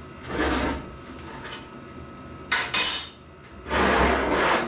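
Steel angle iron being picked up and handled: metal scraping and clinking against metal, with a sharp ringing clank near the three-second mark.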